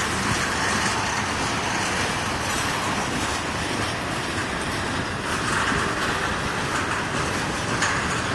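Freight train cars rolling past on the rails, a steady rumble and rattle of wheels on track.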